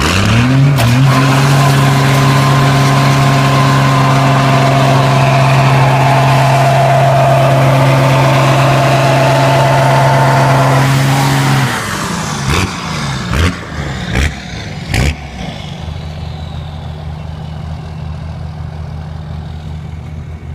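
A truck engine revs up and is held at steady high revs for about eleven seconds, then falls back to a quieter, lower steady run. A few sharp knocks come soon after it drops.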